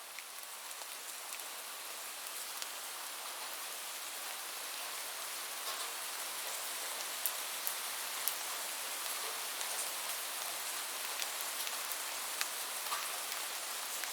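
Steady rain with scattered individual drops ticking close by. The rain grows slightly louder over the first several seconds, then holds.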